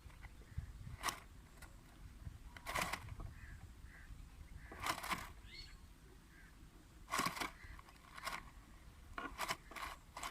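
Mynas at a nest box giving a short, harsh call every second or two, about seven in all.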